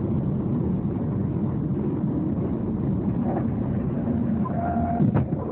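Steady road and engine noise of a car driving, with a brief sharp knock about five seconds in.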